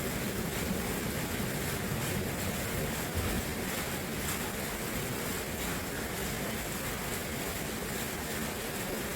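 Steady rushing water, an even, unbroken wash of sound.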